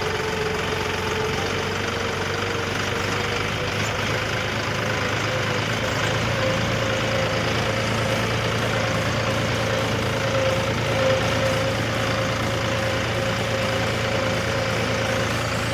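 John Deere tractor's diesel engine running steadily, its pitch rising a little about six seconds in.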